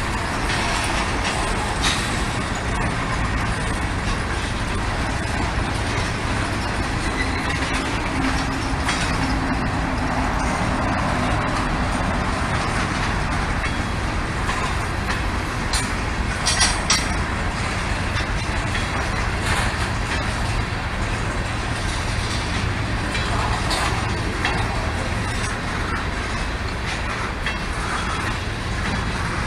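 Freight train rolling past: a steady rumble and rush of wheels on rail, with a few sharp clicks about sixteen seconds in.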